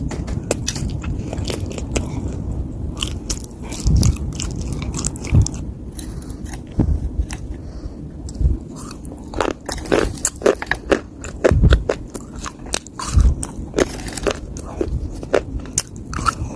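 Dry clay earth being bitten and chewed, with many sharp crunches and a few deep thuds.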